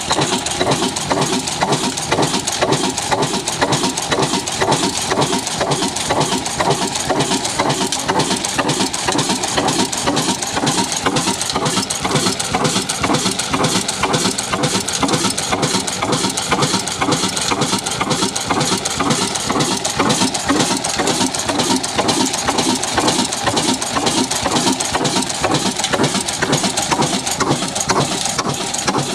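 Old stationary engine driving a chakki flour mill, running steadily with a rapid, even beat.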